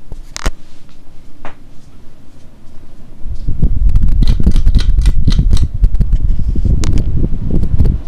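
Tatung CAM-52BB hugger ceiling fan running, with a couple of sharp clicks in the first two seconds. From about three seconds in, a loud, uneven low rumble of air buffeting the microphone takes over and stops suddenly near the end.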